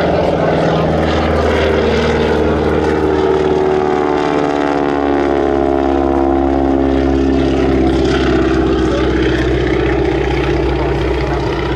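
Propeller-driven wingwalking biplane's radial engine running loud and steady as the aircraft passes; its note drops in pitch through the middle of the pass, then rises again near the end.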